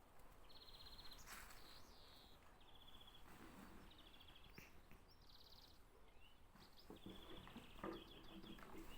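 Near-quiet outdoor ambience with a small bird's short, high trills repeating every second or two. A few faint clicks are also heard.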